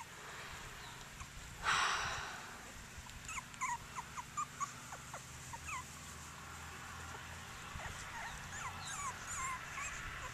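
Cockapoo puppies whimpering and squeaking, many short high-pitched squeals scattered through, with a brief rustle near the start.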